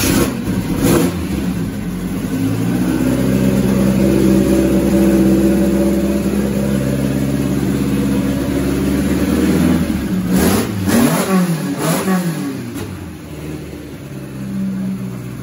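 Datsun 510's built four-cylinder engine running loud and steady, then blipped hard three times about ten seconds in, revving high before settling back.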